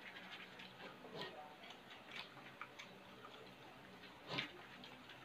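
Faint, irregular mouth clicks and chewing sounds from eating food by hand, with one louder smack about four seconds in.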